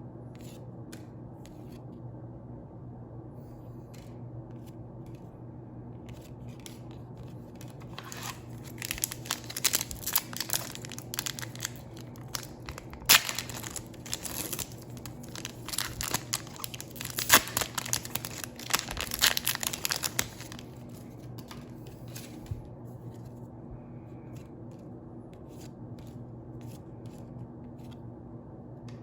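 Foil booster pack wrapper being torn open and crinkled for about twelve seconds, starting about eight seconds in, with several sharp louder rips. Before and after, there are only scattered light clicks over a steady low hum.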